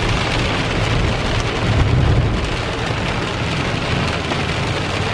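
Heavy rain falling on a car, heard from inside the cabin, as a steady hiss. Underneath it is a low rumble that swells briefly about two seconds in.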